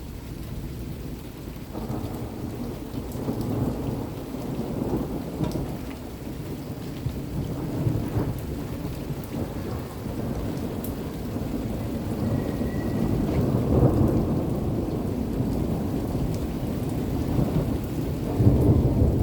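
Thunder rumbling in long rolling waves that build up, growing louder toward the end, over steady falling rain.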